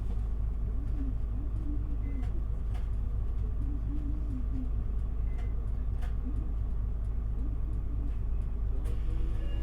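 Interior sound of an Isuzu Erga city bus (QPG-LV234L3): a steady low diesel engine rumble, with a few faint light clicks.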